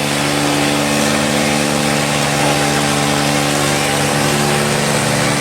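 Tractor engine running steadily at an even speed, with a low pulsing beat under a steady hum.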